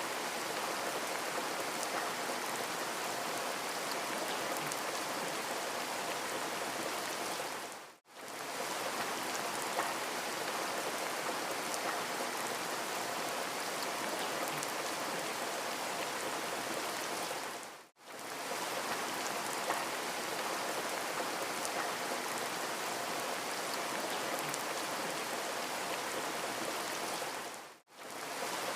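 Steady rain falling, an even hiss with scattered drop ticks. It fades out and back in briefly three times, about ten seconds apart, where a short rain recording repeats.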